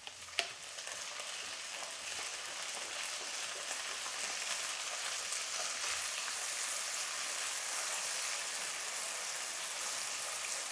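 Chopped garlic and onion frying in hot oil in a non-stick kadai. A sharp hiss comes as soy sauce is poured in, then a steady sizzle builds over the first couple of seconds while a silicone spatula stirs the mix.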